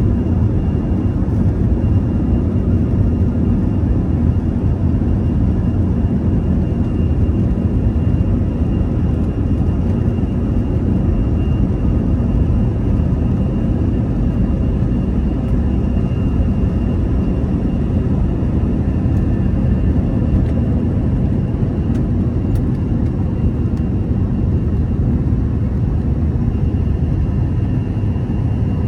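Airbus A321-211 airliner's CFM56 turbofan engines during takeoff: a steady, heavy low roar with a faint high whine running through it.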